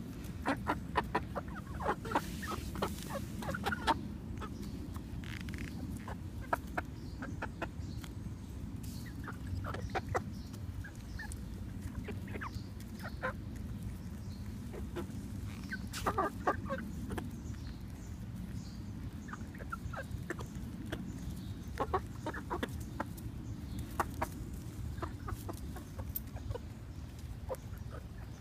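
Backyard chickens clucking, with many short calls scattered throughout over a steady low background hum.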